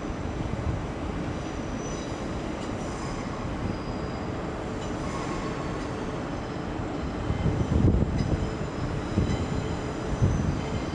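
Passenger train moving on the tracks: a steady low rumble with faint high squealing tones from the wheels on the rails. Heavier low rumbling and knocks come in from about seven seconds in.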